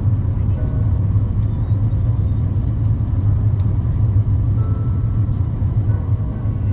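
Steady low rumble of cabin noise inside an Airbus A350-900 airliner.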